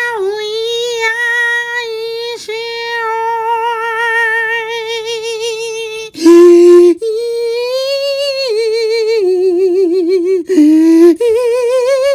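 A high voice holding long, wavering sung or hummed notes, broken by a few short gaps, with a louder, lower note about six seconds in and another near the end.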